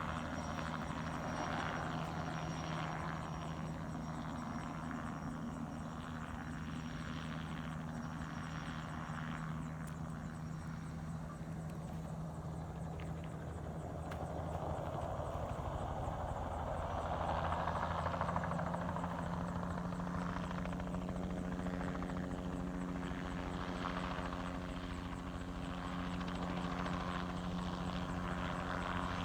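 Crop-spraying helicopter in flight, its rotor and engine giving a steady drone that swells slightly a little past the middle.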